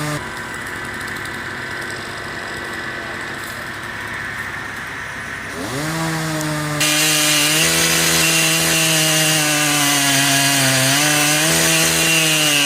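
A chainsaw running at high revs. About halfway through it revs up, then cuts into wood with a louder, rasping sound that holds steady, the pitch dipping slightly under load.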